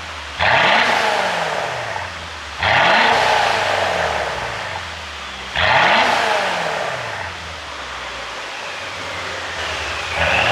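Mercedes-Benz S500's twin-turbo V8 revved in four quick blips, the pitch rising sharply and then falling back each time. As the revs drop, a crackling exhaust on the overrun follows, the pops of a pop-and-crackle ECU tune.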